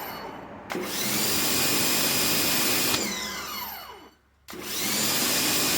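Sun Joe SPX4004-MAX electric pressure washer's motor cycling on and off: it winds down with a falling whine, starts up again just under a second in with a rising whine, runs steadily for about two seconds, winds down to a stop about four seconds in, and starts again half a second later. It is a lot louder and slower to turn on and off than the Adams.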